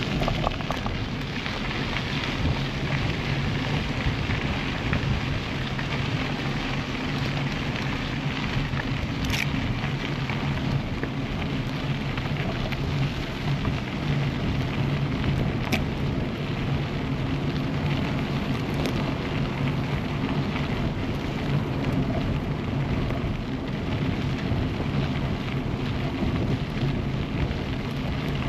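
Steady rushing noise of a bicycle ride: wind on the action camera's microphone and tyres rolling along the path, with a few faint ticks.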